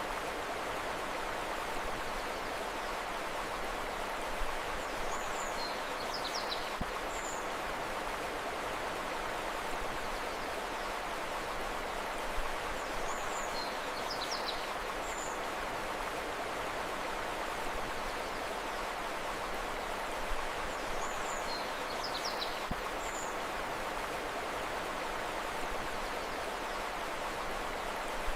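A river flowing steadily, with a small bird's short high chirps coming in brief clusters about every eight seconds.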